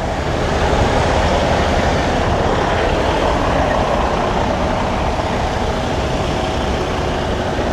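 Semi truck's diesel engine running steadily under load as the tractor backs up, heard from inside the cab as a constant rumble with a dense mechanical hiss.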